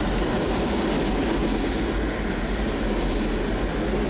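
Freight train of auto rack cars rolling past, a steady rumble of steel wheels on the rails.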